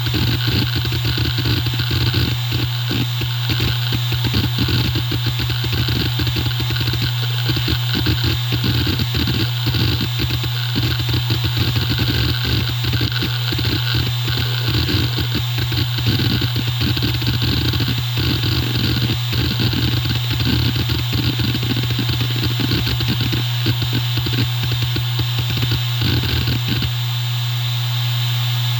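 Hitachi Deskstar E7K500 hard drive seeking hard: rapid, busy head-actuator clicking and chattering over the steady hum of its 7200 rpm spindle. Near the end the seeking stops and only the spinning platters' hum is left.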